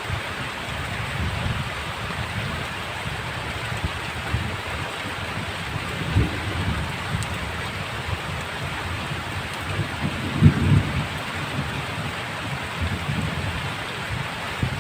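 Heavy rain pouring steadily, with irregular low rumbles and thuds underneath, the strongest about ten seconds in.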